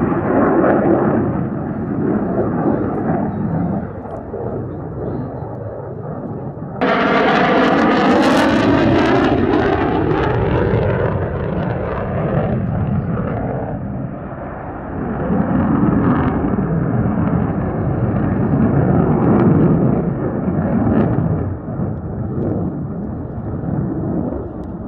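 Military jet aircraft flying overhead. About seven seconds in, a jet comes past close with a sudden jump in loudness and a falling whoosh that fades over several seconds, and the jet noise swells again later.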